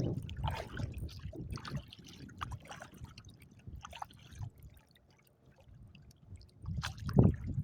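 Water splashing and lapping irregularly against a small kayak's hull on wind-driven chop, with a louder splash about seven seconds in.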